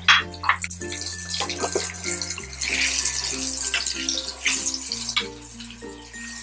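Stuffed gunda (lasoda) sizzling in hot oil in a nonstick frying pan, stirred with a wooden spatula that scrapes and clicks now and then. Soft background music with slow, sustained low notes plays underneath.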